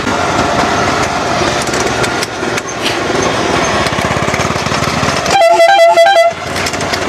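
Small engine of a homemade cot-bed car running steadily while it drives. About five seconds in, a vehicle horn honks for about a second.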